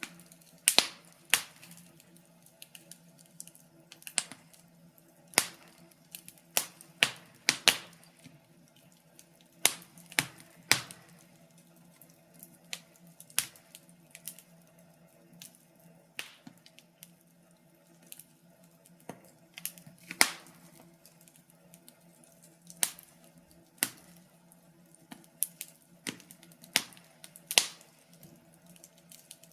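Wood fire crackling: irregular sharp pops and snaps, some louder than others, with short quiet gaps between them, over a faint steady low hum.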